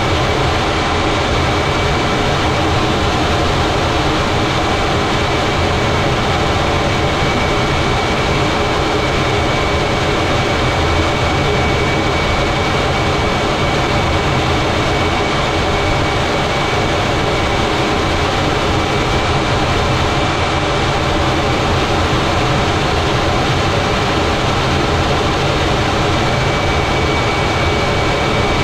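Fighter jet engine and airflow noise heard from the cockpit during air-to-air refuelling: a loud, steady rumble with a thin, high steady whine above it.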